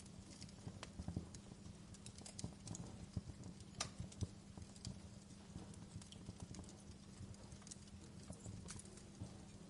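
Wood fire burning in a fireplace: irregular crackles and snaps over a low, steady rumble of the flames, with a sharper pop about four seconds in.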